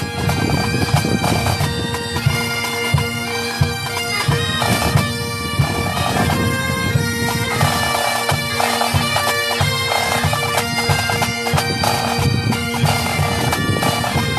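Military pipe band playing: bagpipes carry a march melody over steady drones, with drum strokes beneath.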